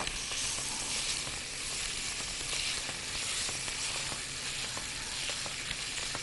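Chicken pieces and spices frying in hot oil in a pot: a steady sizzle with small crackles.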